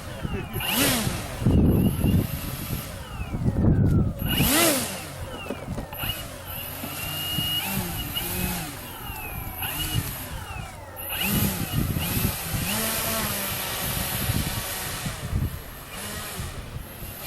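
Electric radio-controlled model airplane motors whining, their pitch sweeping up and down as the planes fly past and change throttle. Wind gusts on the microphone during the first few seconds.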